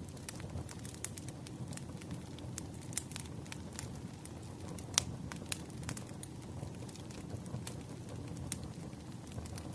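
Wood fire burning, a steady low rumble with irregular crackles and pops; the loudest pop comes about halfway through.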